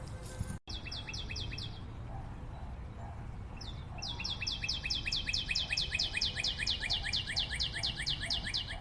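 A bird calling in long, fast runs of high, down-slurred notes, about six a second, pausing for a couple of seconds midway before starting up again. A low steady rumble runs underneath.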